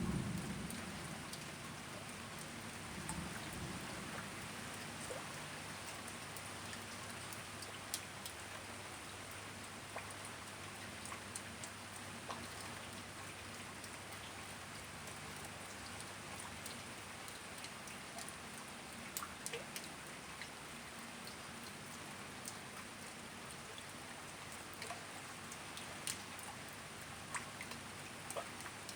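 Steady rain falling, with scattered sharp drops ticking on a nearby surface. A brief low rumble sounds at the very start.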